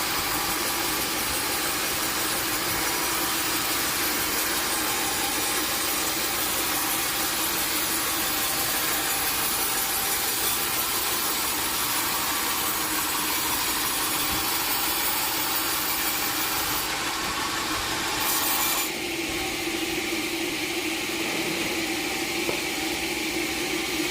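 Sawmill saw cutting through a log, a steady loud sawing noise with a constant hum beneath it; the tone of the cut shifts about three-quarters of the way through.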